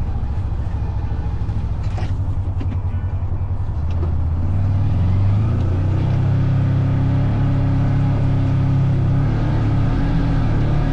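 Off-road vehicle engine running, picking up revs about four to six seconds in and then holding steady, with a few light clicks about two seconds in.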